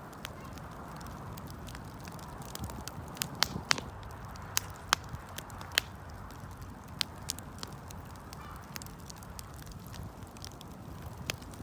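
Campfire burning, wood crackling and popping in irregular sharp snaps over a steady low rumble of the flames.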